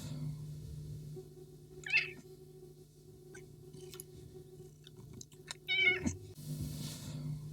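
A cat meowing twice: a short meow about two seconds in, then a louder, longer one near the end, with a few faint clicks between and a steady low hum behind.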